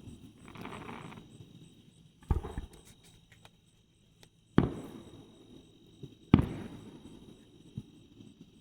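Aerial fireworks going off: a handful of sharp bangs, the loudest about four and a half and six seconds in, each followed by a rolling echo. A faint steady insect chirp runs underneath.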